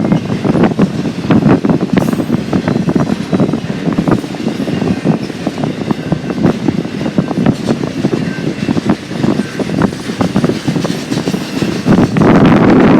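Freight train cars rolling past, wheels clicking and clattering on the rails, with wind buffeting the microphone, heaviest near the end.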